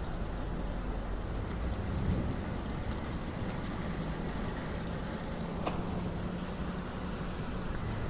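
Heavy rain falling steadily in a thunderstorm, an even hiss of downpour.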